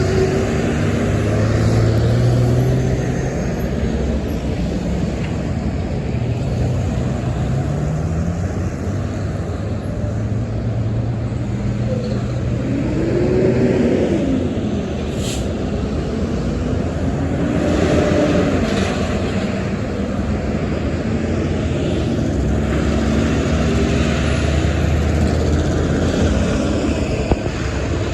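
Road vehicles running, a steady engine and road rumble with a few swells and shifts in engine pitch, about a dozen and a half seconds in.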